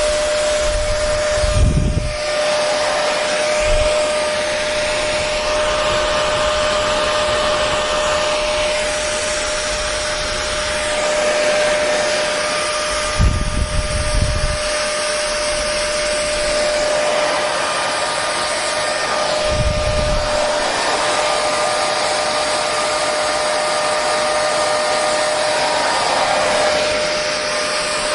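Hair dryer running steadily: an even rush of blown air with a constant motor whine. Brief low rumbles come and go three times, near the start, about halfway, and a few seconds later.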